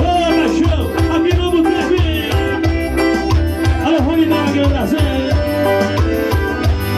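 Forró music played live: a steady bass and drum beat with shaker, an accordion-like held note and a wavering melodic line over it.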